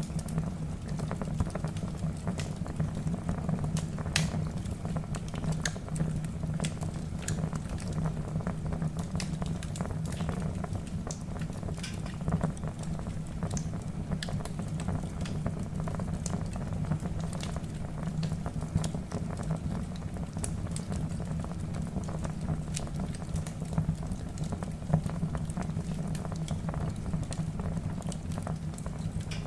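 Wood fire burning in a fireplace: a steady low rumble of flames with frequent sharp crackles and pops from the logs, a few of them louder.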